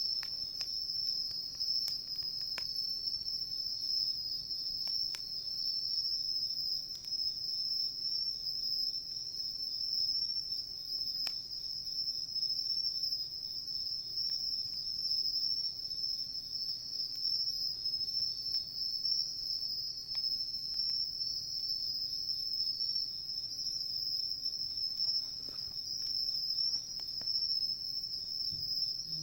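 Crickets singing in a steady, high-pitched chorus, with a few faint pops and crackles from a wood campfire.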